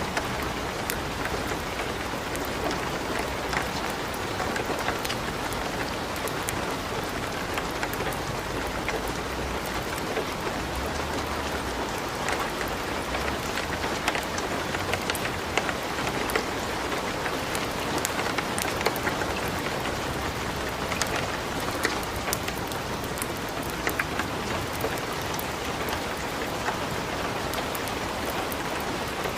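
Light rain falling steadily together with a wood fire burning in a fireplace: an even hiss with many scattered sharp clicks and pops.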